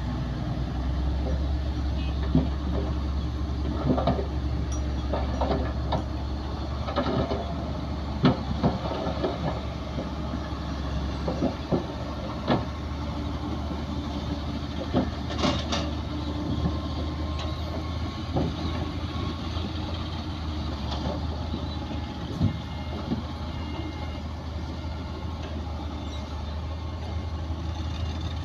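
Heavy diesel earthmoving machinery running steadily with a deep engine hum, with irregular knocks and clanks throughout.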